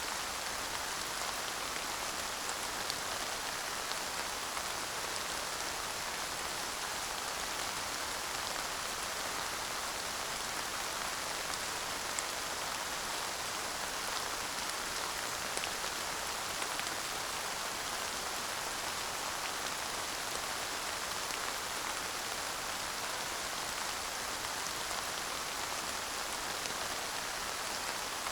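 Steady light rain falling, an even hiss with scattered small drop ticks and no thunder.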